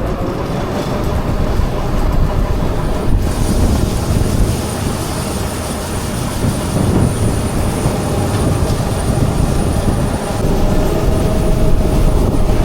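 Heavy farm machinery running steadily: a deep engine rumble with a constant drone and a thin high whine, and no clear changes in load.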